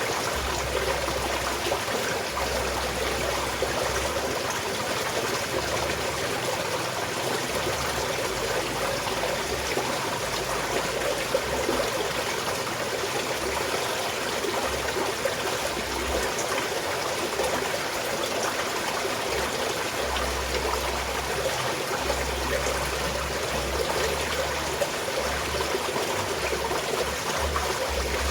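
A small mountain stream flowing and trickling steadily, with an even splashing rush.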